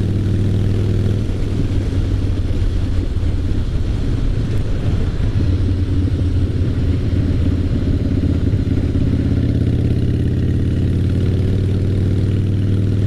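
Harley-Davidson Fat Boy's Twin Cam 88 V-twin running through straight drag pipes of a stage 1 exhaust while riding, its exhaust note holding fairly steady with only slight changes in engine speed.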